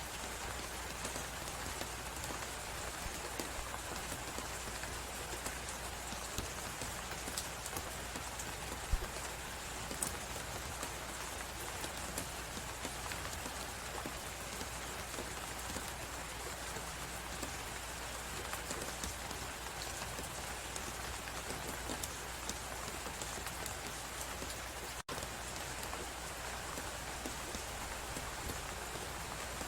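Fireplace fire crackling with scattered light pops over a steady hiss of blizzard wind; the sound cuts out for an instant about 25 seconds in.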